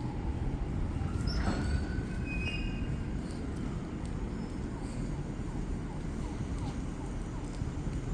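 A train rolling past on the line with a steady rumble of wheels on rails, and brief high wheel squeals in the first few seconds.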